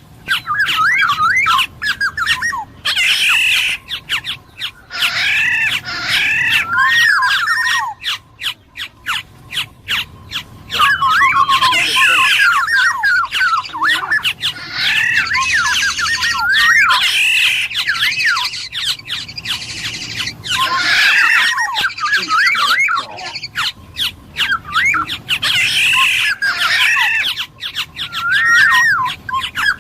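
Black-naped oriole (kepodang emas) singing loudly and continuously in repeated bursts of fast, looping warbled phrases mixed with harsh, clicking notes, one burst every few seconds.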